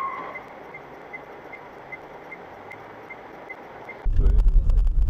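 Car interior sound picked up by a dashcam: a steady hiss with a short high beep repeating evenly about two and a half times a second. About four seconds in, it cuts abruptly to loud low engine and road rumble.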